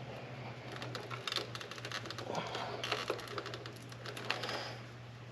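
Quick, irregular light clicks and rattles of small hard parts being handled, with a couple of brief rustles, over a steady low hum.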